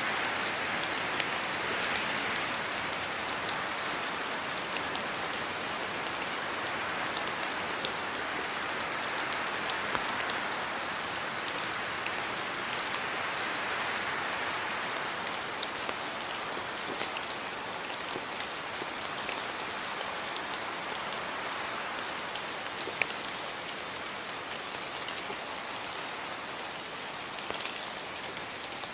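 Steady rain falling on a house yard: an even hiss with scattered individual drops ticking through it.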